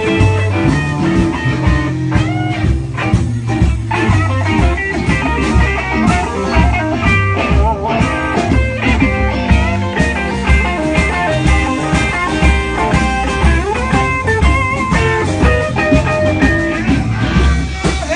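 Live blues band playing an instrumental passage with guitar to the fore; no singing.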